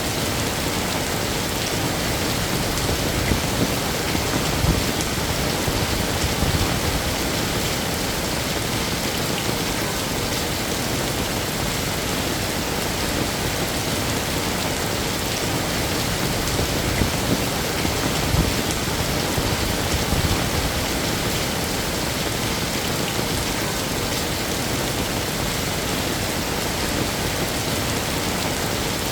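Heavy rain falling steadily on hard surfaces, a dense even hiss with occasional louder drops and splashes.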